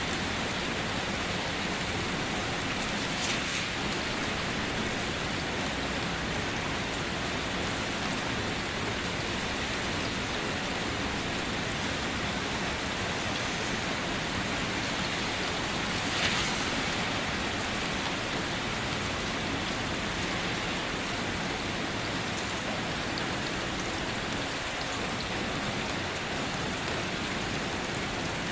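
Steady night rain falling, an even hiss, with two brief louder splashes: one a few seconds in and one just past halfway.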